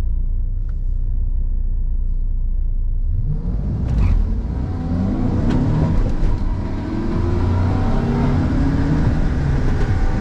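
VW Golf Mk6 turbo-diesel engine heard from inside the cabin, rumbling at the startline and then launching about three to four seconds in. It pulls hard on a drag strip run, its revs rising in repeated sweeps as the manual gearbox is shifted up.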